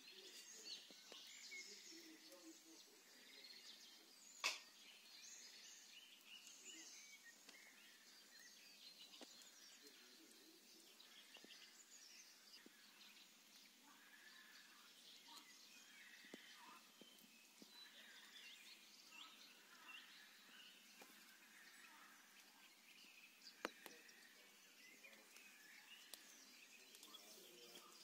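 Faint, distant birdsong: many short chirps over quiet open-air ambience, with a sharp click about four and a half seconds in and another near the end.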